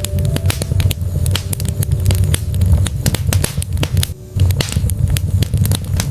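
Wood fire crackling: many sharp pops and snaps over a low, steady rumble of burning logs, easing briefly about four seconds in.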